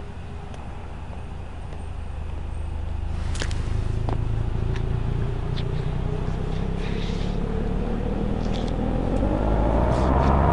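A motor vehicle engine running, its low rumble growing louder, then rising steadily in pitch near the end as it speeds up. A few sharp clicks come along the way.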